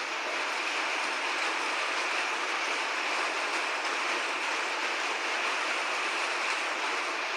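Steady rain falling, an even hiss with no breaks and no thunder.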